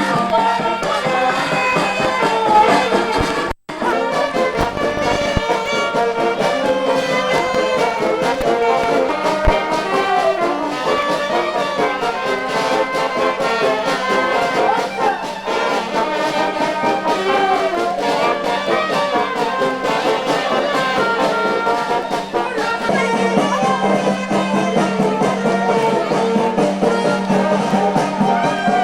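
Music led by brass instruments, trumpets and trombones, playing continuously. The sound cuts out briefly about three and a half seconds in, over a steady low hum.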